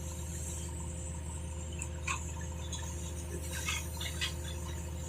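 Excavator's diesel engine idling steadily, with a few light clicks or taps about two, three and a half and four seconds in.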